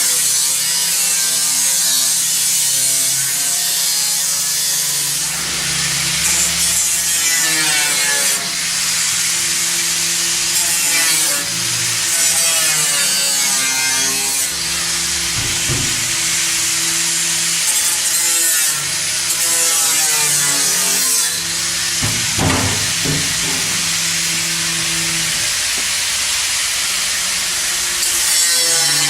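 Power saw cutting continuously, its pitch shifting as it works.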